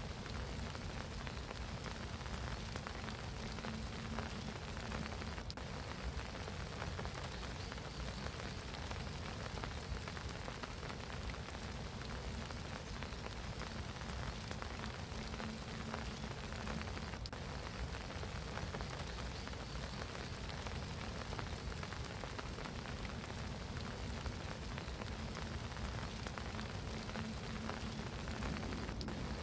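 Steady spring rain falling on a pond, a dense patter of drops on the water. A low droning tone rises and fades under the rain three times.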